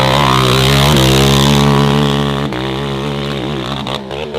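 Dirt bike engine running hard at high revs, the pitch held steady and then wavering as the throttle is worked. Near the end it turns choppy with quick blips.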